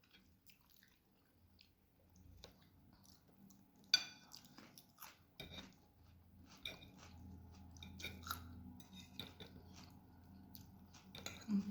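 Close-miked chewing and slurping of lagmon noodles with spinach, with irregular wet mouth clicks and smacks. A sharp click about four seconds in is the loudest sound.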